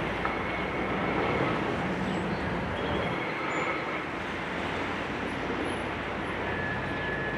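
Steady rumble of heavy engines running, with a few faint thin high squeals over it.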